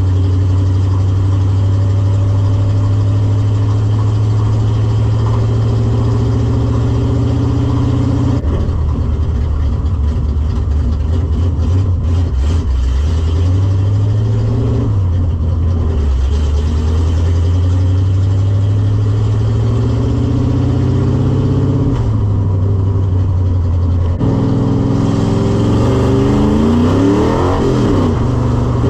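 Ford 5.0 V8 with long-tube headers and a Holley carburettor running under way in the car. Its engine speed climbs and drops several times, with a quick rev up and back down near the end.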